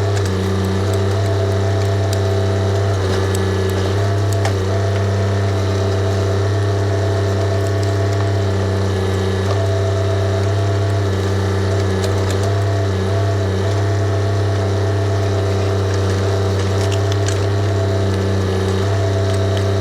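Diesel engine of a TYM compact tractor-backhoe running steadily at working speed during digging, a deep, even hum whose upper tones come and go as the load changes, with scattered light clicks and clanks.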